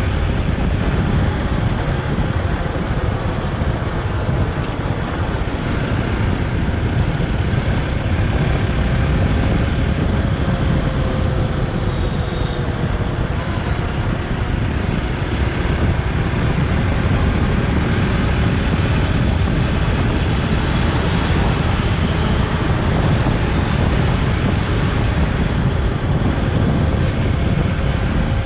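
Motorcycle engine running steadily during a ride, mixed with wind rush on the microphone.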